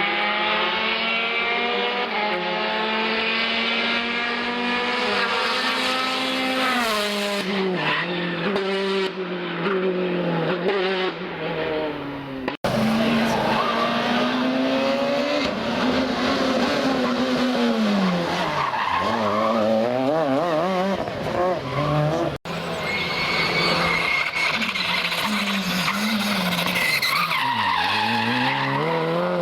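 Rally cars at racing revs passing one after another: each engine holds a high note, then its pitch drops and climbs again in steps as it brakes, changes gear and accelerates away. The sound cuts off suddenly twice, a little less than halfway in and again about three-quarters of the way through, each time giving way to another car's engine.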